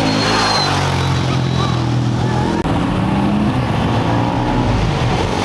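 Off-road race motorcycle engines running at a steady pitch, one engine note stepping up about half a second in.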